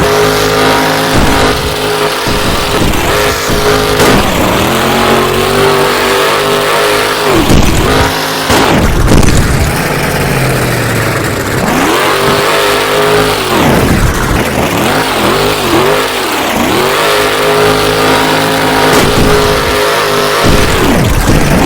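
Monster truck's supercharged V8 engine revving hard over and over, its pitch climbing, holding and dropping away, with a quick run of short throttle blips midway. Loud throughout.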